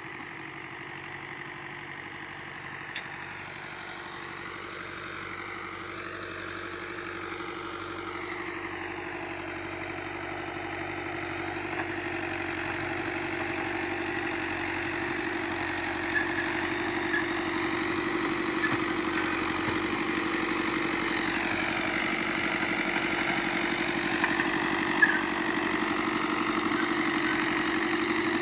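Tractor engine running steadily, its pitch drifting up and down a little, growing gradually louder as it comes closer.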